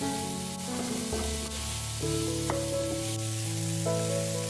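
Chopped onions and carrots sizzling as they fry in a pan and are stirred. Background music with sustained notes plays over it.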